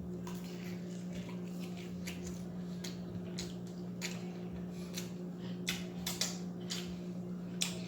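Close-up chewing and mouth sounds of someone eating fries dipped in barbecue sauce: irregular wet smacks and clicks, with a few sharper ones in the second half, over a steady low hum.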